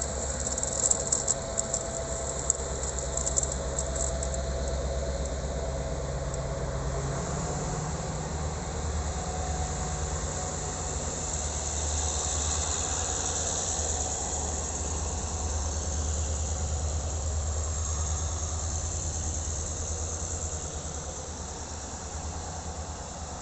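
SŽ class 664 'Reagan' diesel-electric locomotive's engine running with a steady low drone, with a few sharp clicks in the first few seconds. It gets louder about a third of the way in and eases off near the end.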